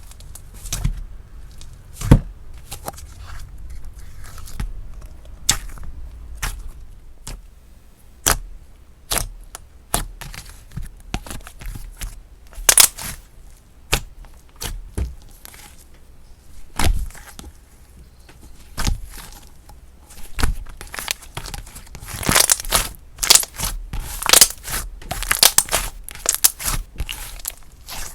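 Hands pressing, stretching and pulling slime: sticky pops and clicks one after another, thickening into quick crackly tearing runs over the last several seconds.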